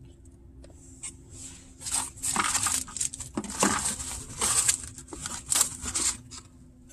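Packaging and paper being handled, rustling and crinkling in several bursts, over the steady hum of the idling truck.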